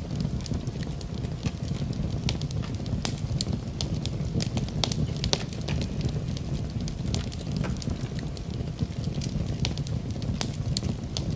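Wood fire in a fireplace crackling, with frequent irregular sharp pops and snaps over a steady low rumble of the burning logs.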